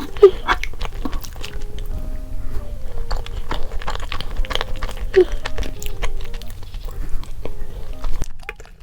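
Light, cute background music over a busy run of small clicks and crackles and a low rumble; the clicks and rumble stop shortly before the end, leaving only the music.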